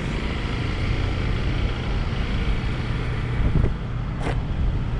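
Motorcycle engine running steadily among road traffic, with a brief sharp noise about four seconds in.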